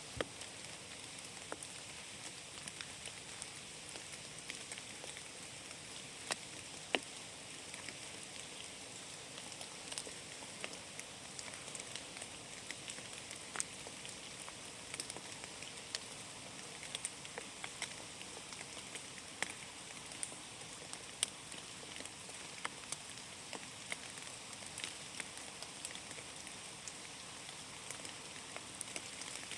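Rain falling in a forest: a steady hiss with many scattered, sharp drips of single drops landing close by.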